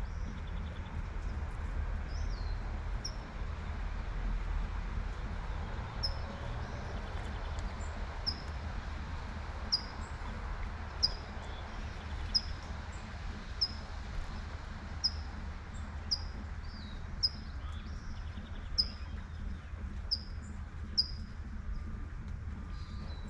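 A bird repeats one short, high, falling chirp about once every second and a quarter, from about six seconds in until near the end. Behind it are the steady hiss of light rain and a low rumble of traffic.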